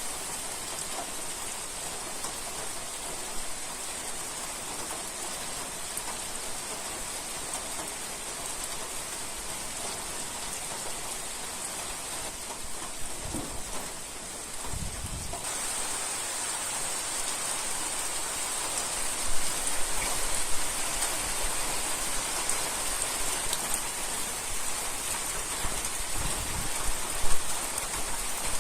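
Heavy rain falling steadily, getting louder suddenly about halfway through, with a few low thumps near the end.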